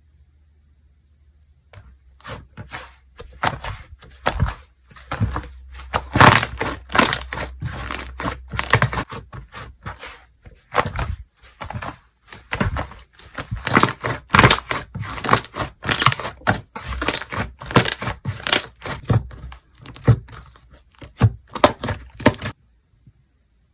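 Slime being squished and stretched by hand, making a dense run of crackles and pops that starts about two seconds in and stops shortly before the end.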